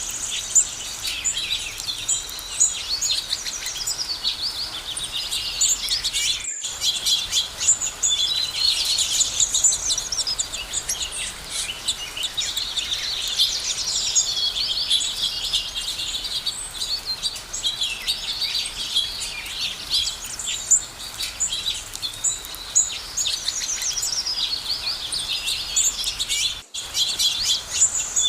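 Several songbirds chirping and trilling together in a continuous, overlapping chorus of high twittering calls, with a short break about six seconds in and another near the end.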